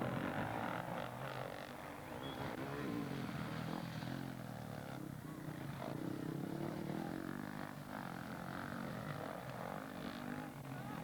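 Motocross bike engines running on the track, the pitch rising and falling as the riders open and close the throttle.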